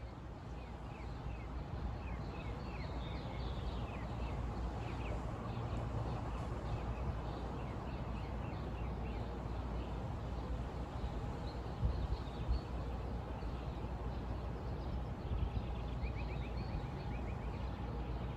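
Several birds chirping in short calls throughout, with a quick trill near the end, over a steady low rumbling background.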